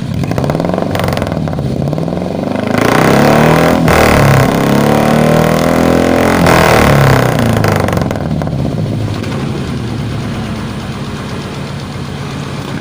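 Carbureted Suzuki Futura's four-cylinder engine revved several times through a new 4-3-1 header and HKS aftermarket muffler. The pitch rises and falls with each blip, the two loudest revs come in the middle, and it settles back to a steady idle near the end.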